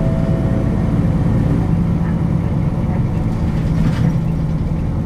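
Nissan Diesel KL-UA452KAN city bus's diesel engine running steadily, heard from inside the passenger cabin, with a faint click about four seconds in.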